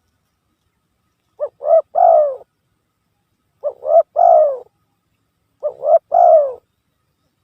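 Spotted dove (tekukur) cooing, three phrases about two seconds apart, each two short coos followed by a longer falling coo. It is a lure call for attracting doves, played with dead silence between the phrases.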